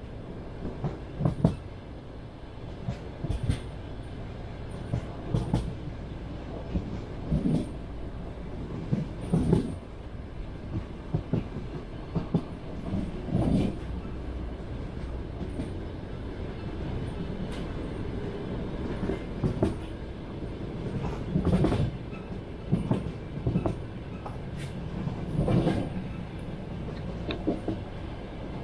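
Passenger train wheels clacking over rail joints, knocks coming in pairs or small groups about every two seconds over a steady rolling rumble.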